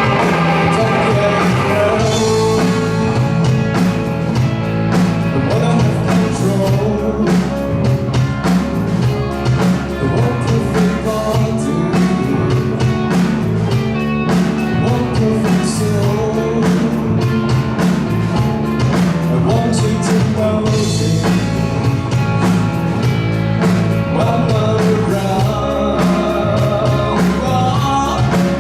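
A live rock band playing a song at full volume with a steady beat, and singing.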